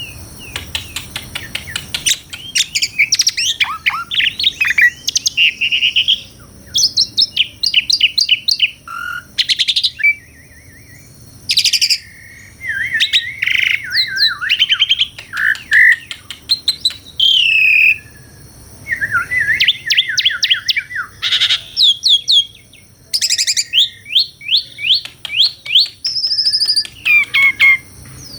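Asian pied starling (jalak suren) singing: a varied, chattering song of fast repeated notes, sliding whistles and trills, in bursts of a second or two with short pauses between.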